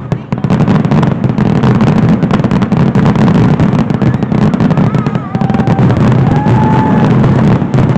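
Dense, continuous barrage of fireworks: dozens of overlapping loud bangs and crackles with no gaps between them, with a few high whistling tones in the second half.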